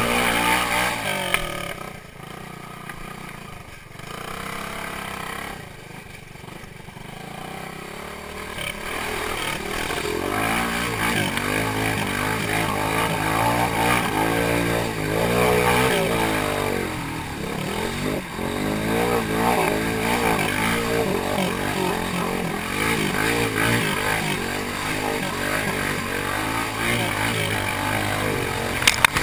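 Small off-road motorcycle engine revving up and down as it is ridden, quieter for several seconds after the start and then louder from about ten seconds in.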